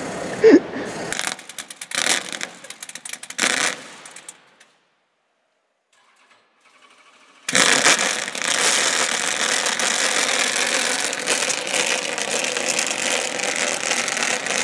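Scattered knocks and handling noises, then a short gap of silence. About halfway in, the Brill Steel Nissan Silvia drift car's engine comes in abruptly, running loud and steady with a dense rattly exhaust note.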